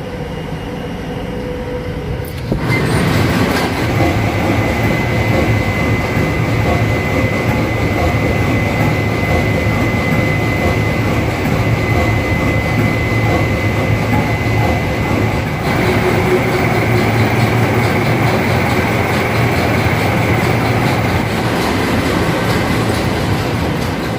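Ship's engine-room machinery running: a loud, steady drone with a low hum and a thin high whine. It becomes much louder suddenly about two and a half seconds in, as if a door to the machinery space opened.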